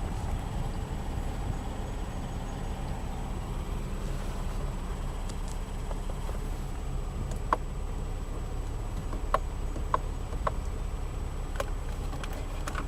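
Steady low rumble of the car idling, heard from inside the cabin, with about half a dozen short, sharp clicks in the second half.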